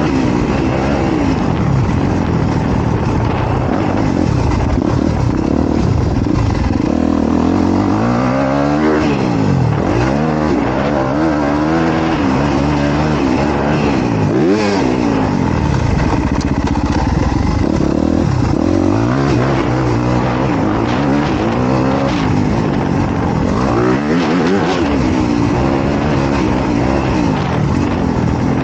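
Honda CRF250R dirt bike's single-cylinder four-stroke engine being ridden hard, its pitch climbing and dropping again and again with the throttle and gear changes.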